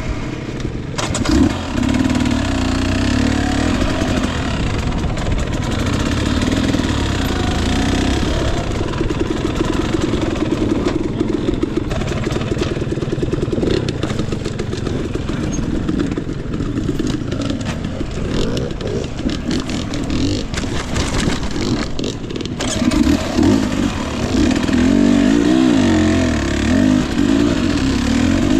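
Husqvarna TE 250i two-stroke dirt bike engine running and revving on and off, its pitch rising and falling with the throttle, with frequent short knocks throughout. The revs come harder and more often near the end.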